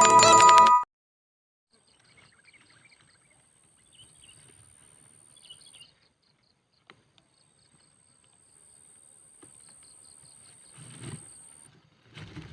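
Intro music cuts off in the first second, then faint outdoor ambience of small birds chirping and twittering over a thin, high steady insect-like tone. A low rumbling noise comes in near the end.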